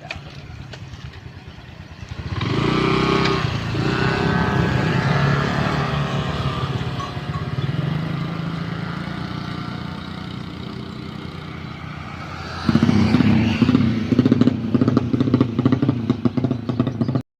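Tuned carburettor motorcycle engine being revved, its pitch rising and falling again and again. It gets louder and rougher about thirteen seconds in, then cuts off suddenly near the end.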